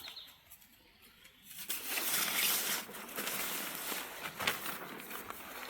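Rustling and handling noise of camping gear and fabric being moved, with scattered light clicks. It goes briefly quiet about a second in.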